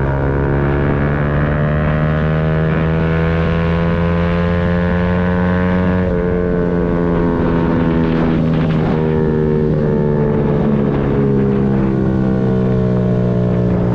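Yamaha MT-125's single-cylinder 125 cc four-stroke engine running under way, heard from the bike. Its pitch climbs slowly for the first half, dips about six seconds in and falls for a few seconds as the revs come down, then levels off.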